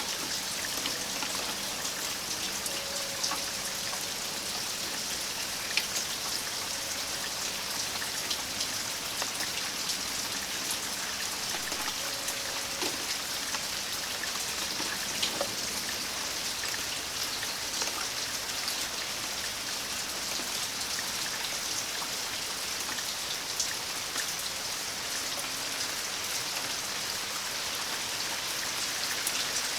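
Steady rain falling, an even hiss with scattered louder drops tapping on nearby surfaces.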